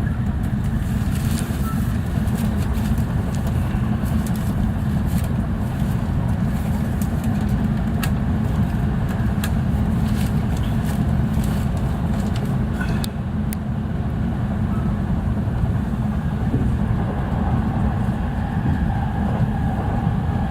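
JR East E657 series limited express train running at speed, heard from inside the car: a steady low rumble of wheels on rail, with a few sharp clicks partway through and a faint steady tone coming in near the end.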